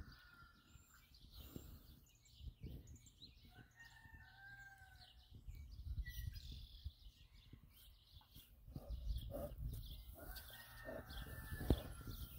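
Birds calling, several short held calls and many small chirps, with scattered low thumps.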